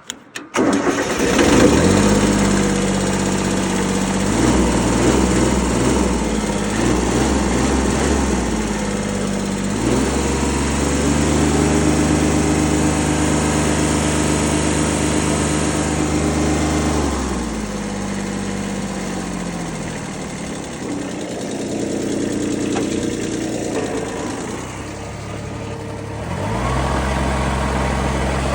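Kubota B6001 tractor's three-cylinder diesel engine starting, catching almost at once, then running with its speed changed several times: held higher and steady through the middle, dropping back about two thirds in, and raised again near the end.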